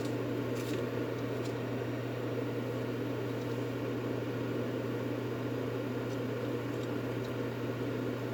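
Steady, unchanging white-noise drone with a low hum underneath, of the kind played to soothe a baby to sleep.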